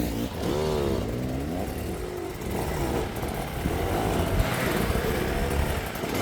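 Enduro dirt bike engine revving up and down, its pitch rising and falling again and again as the rider works the throttle, most strongly in the first couple of seconds.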